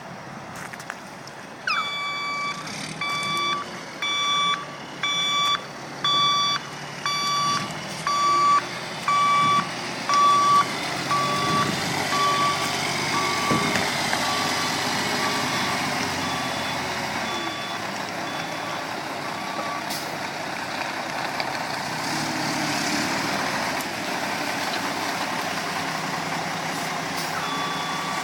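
Backup alarm beeping at a steady pace of about one beep every 0.8 s on a reversing Mack boom truck, over its diesel engine running. The beeps start about two seconds in, grow fainter and stop about two-thirds of the way through, then start again near the end.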